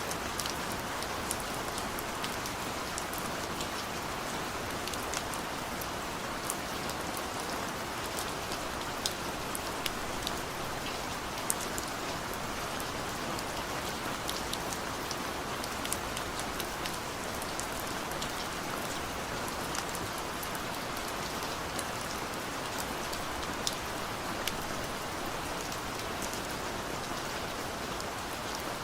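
Heavy rain falling steadily, with many brief, sharp ticks of individual drops striking close by.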